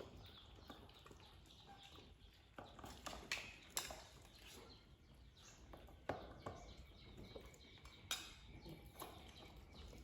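Kittens eating: faint, irregular clicks and smacks of chewing and lapping, a few sharper ones standing out.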